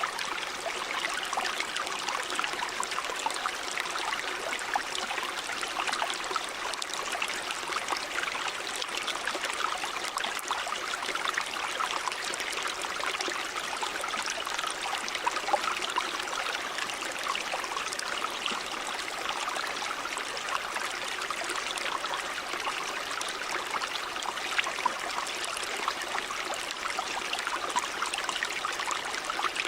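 Shallow river or stream running steadily over rocks, a continuous rush of water full of small splashes and gurgles.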